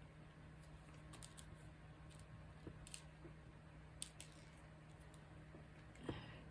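Faint, scattered light clicks and taps of diamond-painting work, a drill pen picking up and pressing small resin drills onto the canvas, with a slightly louder tap near the end.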